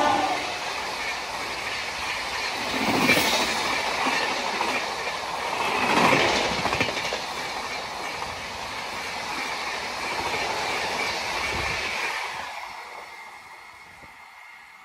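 Indian Railways express train of LHB coaches passing close at speed behind an electric locomotive. The tail of the horn drops in pitch at the very start. Then comes a steady rush of wheels on rail with clickety-clack, swelling louder about three and six seconds in, and fading away after about twelve seconds as the train recedes.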